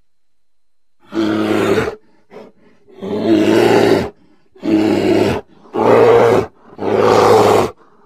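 A bear roaring: five loud, deep roars of about a second each, with a faint short one between the first two and silent gaps in between.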